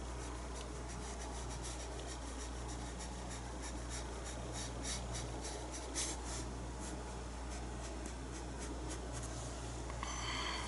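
Paintbrush loaded with acrylic paint scratching across the painting surface in short, repeated strokes, about two or three a second, laying in fur over a steady low hum. A short pitched sound comes near the end.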